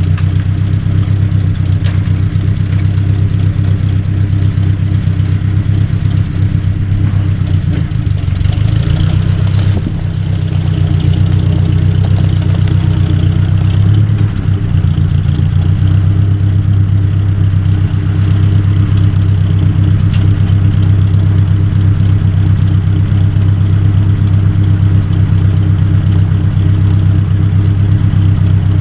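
1953 Ford Jubilee tractor's four-cylinder gasoline engine running steadily close by, while it is set to drag a leaning ash tree down with a chain; the engine note shifts briefly about nine seconds in.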